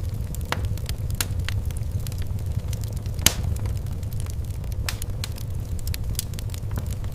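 Wood fire crackling: a steady low rumble with scattered sharp pops and snaps, the loudest pop about three seconds in.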